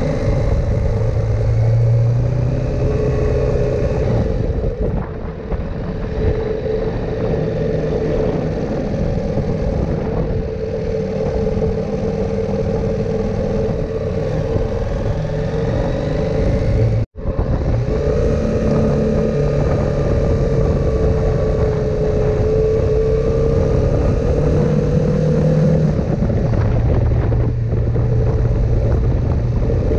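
KTM 890 Adventure R's parallel-twin engine running at a fairly steady speed under way, its pitch drifting slightly up and down, over a steady rush of riding noise. The sound cuts out for an instant about seventeen seconds in.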